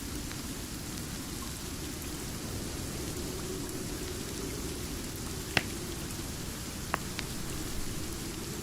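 Steady rain ambience. A few sharp pops from a crackling wood fireplace stand out over it, the loudest about five and a half seconds in and two smaller ones about a second later.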